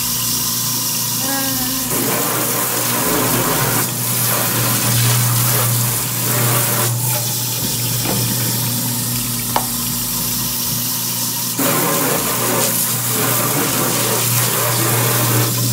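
Hot water running from a kitchen faucet into the sink and down the drain of a garbage disposal, over a steady low motor hum from the running disposal.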